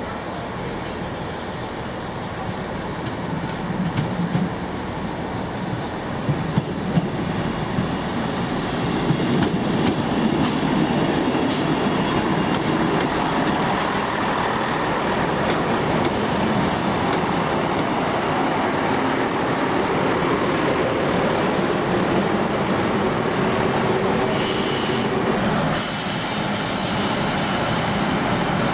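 Train on the rails, growing louder over the first ten seconds, with a few sharp clicks of wheels over rail joints, then a steady rumble of running wheels and engine.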